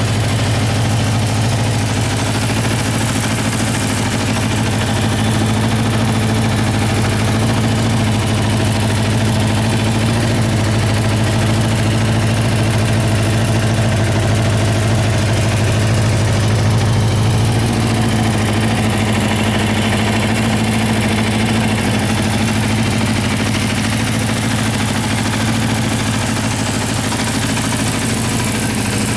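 Honda CB400Four's air-cooled 408cc inline-four engine running steadily at a constant speed.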